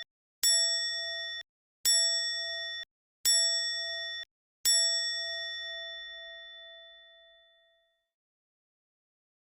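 A bell-like chime sound effect, struck four times about a second and a half apart. The first three strikes are cut off after about a second each, and the last rings out and fades away.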